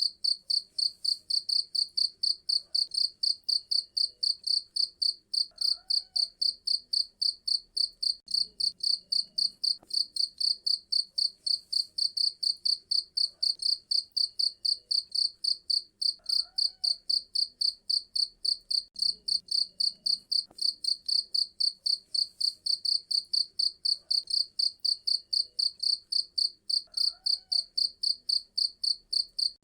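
Cricket chirping: one high-pitched chirp repeated evenly about three times a second, without a break.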